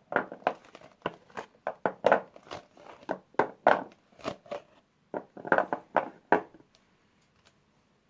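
Soap wrapper crinkling and tearing as a bar is unwrapped by hand: a quick, irregular run of sharp crackles and rustles that stops about six and a half seconds in, leaving a few faint ticks.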